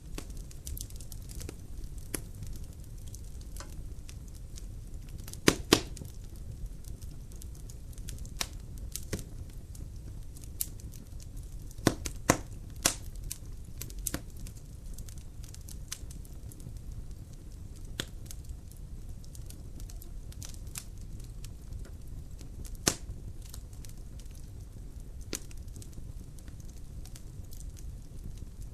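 Wood fire burning in a glass-fronted fireplace firebox: a low steady rumble of flames with sharp crackles and pops every second or so. A few louder pops come about six, twelve and twenty-three seconds in.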